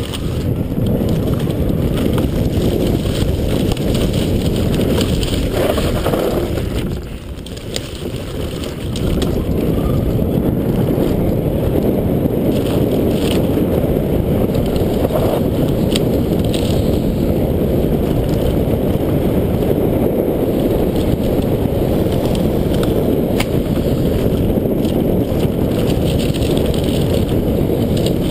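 Wind buffeting the microphone during a fast downhill ride on an electric bicycle, with tyre and trail rattle under it and a few light knocks. It eases off briefly about seven seconds in, then picks up again.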